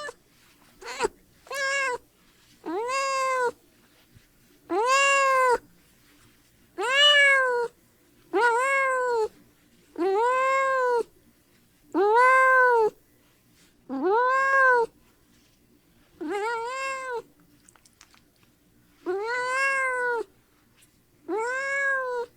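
A cat meowing repeatedly: about a dozen drawn-out meows roughly two seconds apart, each rising and then falling in pitch, with two short ones about a second in.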